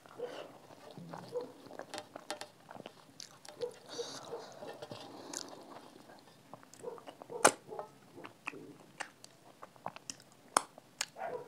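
Close-miked wet chewing of rice and dal eaten by hand, with a string of irregular mouth clicks and smacks; one sharper, louder click comes a little past halfway.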